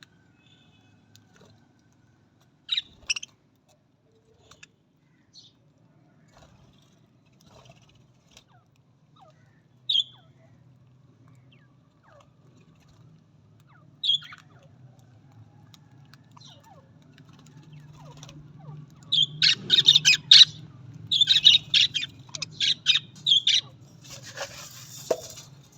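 Budgerigars calling: a few single sharp chirps several seconds apart, then, from about two-thirds of the way through, a dense run of rapid chirping and chatter.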